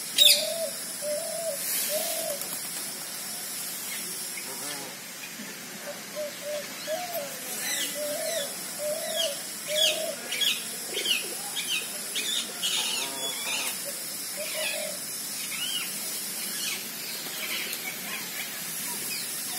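Birds calling: runs of short, repeated hooting notes, and from about seven seconds in a busy stretch of quick, high, falling chirps. A sharp click comes at the very start.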